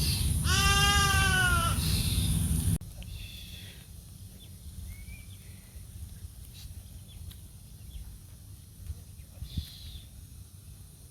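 A goat bleating once, one long call of just over a second that sags slightly in pitch, over loud low rumbling noise that cuts off abruptly near three seconds. Afterwards it is quieter, with a few faint, distant bleats.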